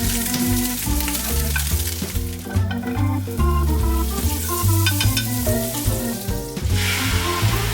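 Food sizzling as it fries in a hot pan. The hiss dips briefly twice and comes back stronger near the end, with background music underneath.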